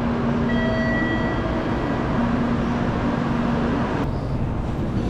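Shinkansen train running, a loud steady rushing noise with a few held whining tones; about four seconds in the high hiss drops away abruptly.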